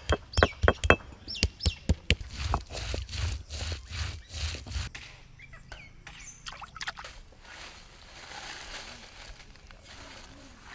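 A quick run of sharp clinks and knocks from cooking vessels and utensils, then softer, irregular handling sounds that fade to faint rustling.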